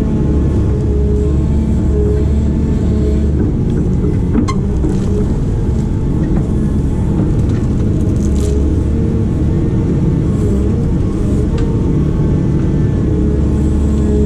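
Diesel engine of a heavy excavator working steadily, with a low rumble and a whine that rises and falls as the hydraulics take load. A sharp knock comes about four and a half seconds in.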